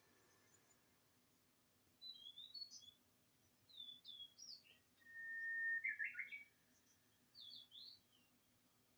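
Small songbird singing in short, separate phrases of quick chirps, with one long held whistle followed by a quick run of notes just past halfway.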